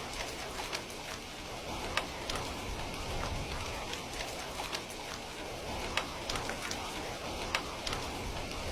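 Steady rain falling, with irregular sharp crackles and pops from a wood fire scattered through it.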